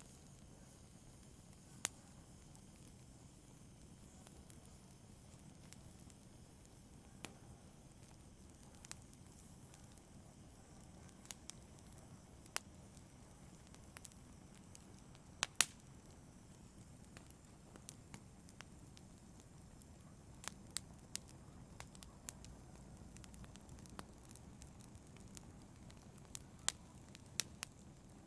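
Wood campfire crackling: irregular sharp pops over a faint, low, steady rumble of the burning, the pops coming more often in the last third.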